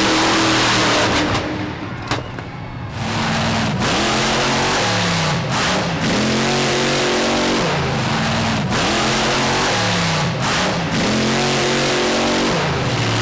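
Monster truck engine revving hard, its pitch dropping and climbing again about five times in quick succession, with a short quieter dip in the first few seconds.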